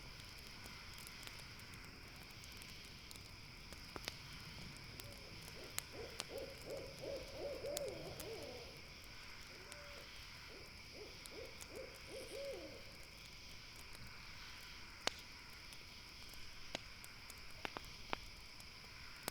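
An owl hooting in two quick runs of notes, the first about six seconds in and the second about ten seconds in, over scattered pops and crackles of a campfire and a steady high-pitched drone.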